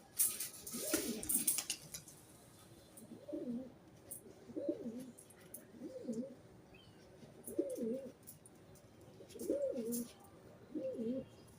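Pigeon cooing: a series of about six low, rolling coo phrases, roughly one every second and a half. A short burst of rustling at the start.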